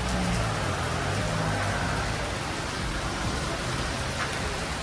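Heavy monsoon rain falling steadily, a dense even hiss.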